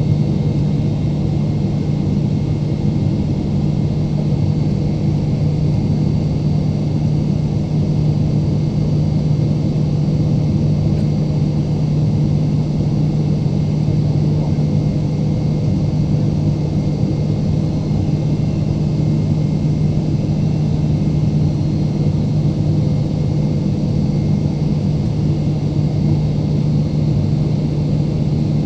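Steady cabin drone inside a Boeing 777-300ER airliner: engine and airflow noise, a low hum with a few faint steady tones above it, unchanging throughout.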